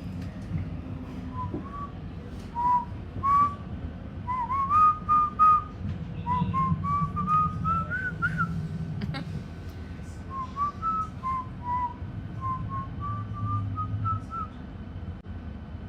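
A woman whistling a tune in short notes around one pitch range, in phrases that climb and dip, over the steady low rumble of a moving train.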